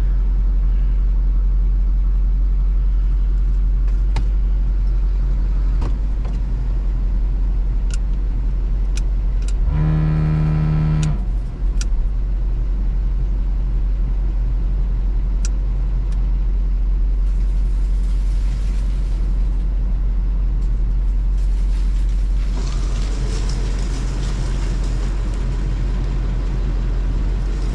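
Plow truck's engine running steadily. About ten seconds in, a pitched tone sounds for about a second and a half, and near the end a hiss comes in over the engine.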